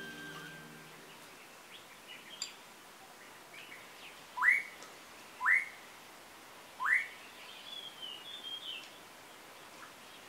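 A bird gives three loud, short whistled calls that sweep upward, each about a second apart, among fainter chirps and a brief twittering from other birds.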